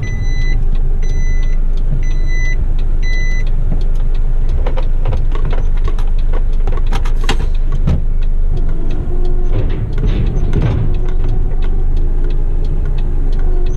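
Heavy rigid truck's engine running, heard from the cab, with a reversing beeper sounding about once a second and stopping a few seconds in. Scattered clicks and rattles throughout.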